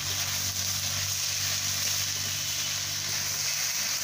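Chopped greens, potatoes and jackfruit seeds sizzling in hot mustard oil in a metal kadai as they are stirred, a steady frying hiss with a low hum underneath.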